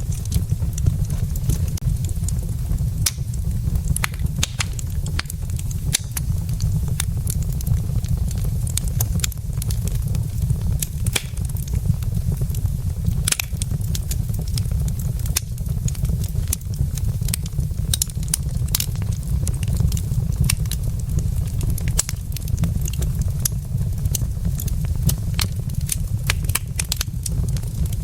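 Wood logs burning in a fireplace, crackling with many sharp, irregular pops over a steady low rumble.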